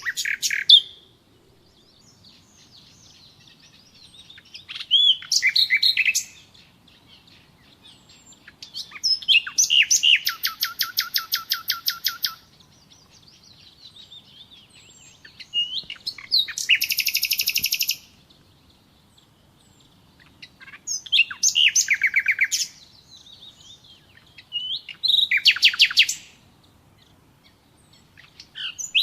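A songbird singing the same kind of phrase again and again, one every four or five seconds. Each phrase opens with a short whistled note and runs into a fast, even trill lasting one to three seconds. Fainter chirps come between the songs.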